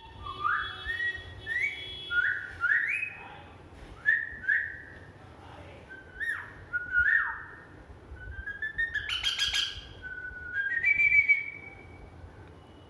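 A person whistling short rising phrases back and forth with a pet parrot, which answers with whistles and a rougher call about nine seconds in.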